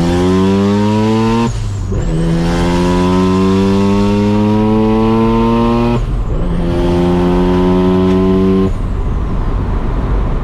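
Turbocharged Chevrolet Silverado's engine pulling hard from a green light, running up through the gears with the pitch rising in each gear and dropping at shifts about 1.5 s and 6 s in, with a faint high turbo whistle; the driver lifts off near the end, leaving road and engine noise.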